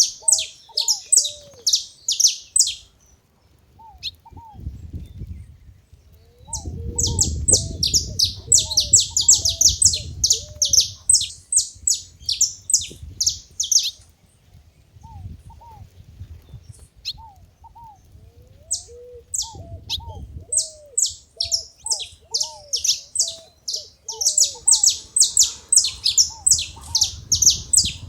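Saffron finches chirping in fast runs of high notes, in three bouts with short pauses between them, and a lower repeated call sounding underneath.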